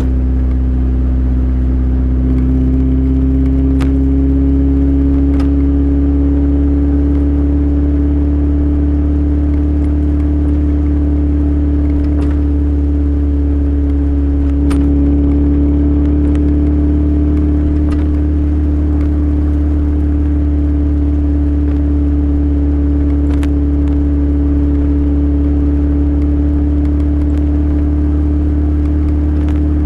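Toyota Corolla's 7A-FE 1.8-litre four-cylinder running steadily through an aftermarket exhaust with headers. Its note rises slightly in the first few seconds, then holds steady.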